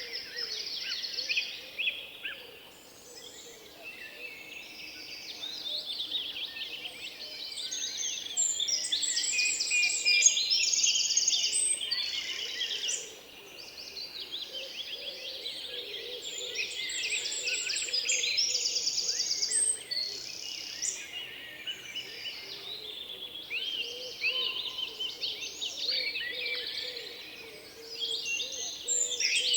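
Many small birds singing and chirping at once, a dense chorus of overlapping trills, quick repeated notes and short whistles.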